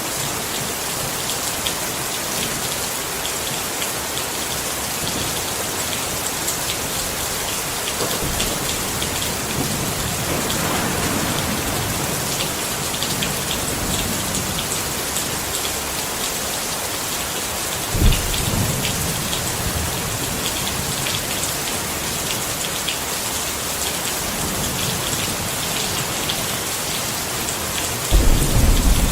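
Steady rain pattering on a tent, with many separate drop ticks over an even hiss. Two short, low rumbles break through, one about two-thirds of the way in and one near the end.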